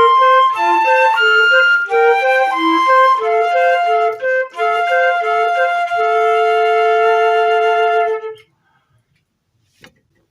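Transverse flutes playing a piece in two parts, with quick repeated lower notes under longer upper notes. About eight seconds in they end together on a long held chord.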